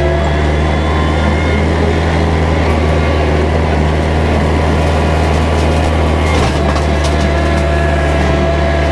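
Kubota tractor's diesel engine running steadily under load while driving a bush hog rotary cutter, with a brief shift in the engine note about six and a half seconds in.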